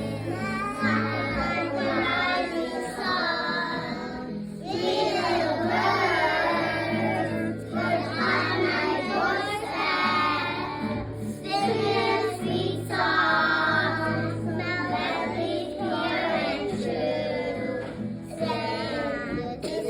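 Children singing a song in phrases of a few seconds, over a steady low musical accompaniment.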